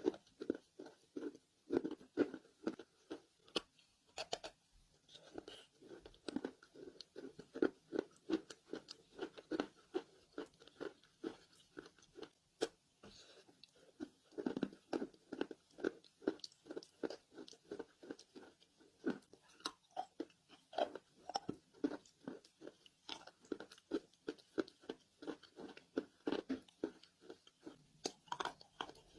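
Close-miked chewing of dry roasted Nakumatt clay: a steady run of sharp crunches, two to four a second, as the pieces are bitten and ground between the teeth.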